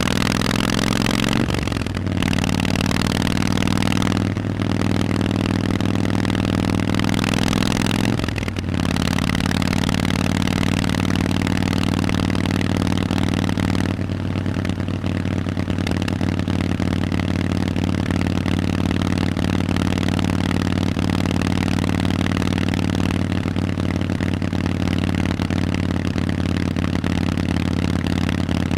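Harley-Davidson Forty-Eight's air-cooled 1200cc V-twin running through Vance & Hines exhausts while riding, pulling up in pitch with short breaks as it shifts up through the gears in the first nine seconds or so, then cruising at a steady engine speed. The exhaust note eases off a little about 14 seconds in.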